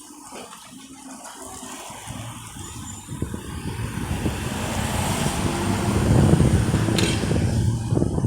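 A motor vehicle approaching and passing close by: engine and road noise grows steadily louder over about six seconds to a peak, then eases slightly, with a short sharp click near the end.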